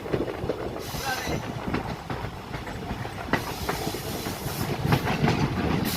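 Passenger train running on the rails: a steady rumble of the carriages with irregular clicks and knocks from the wheels on the track.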